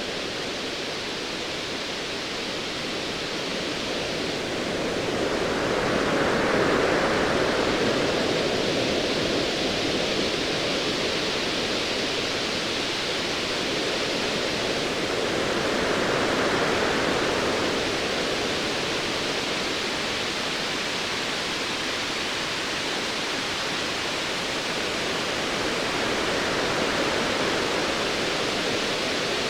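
Ocean waves washing in as a steady rushing noise, swelling twice, about six seconds in and again around sixteen seconds.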